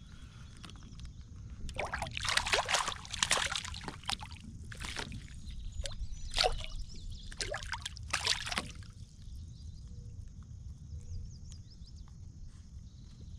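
Water splashing and sloshing beside a kayak in a run of irregular bursts lasting about seven seconds, then settling. A steady low rumble runs underneath.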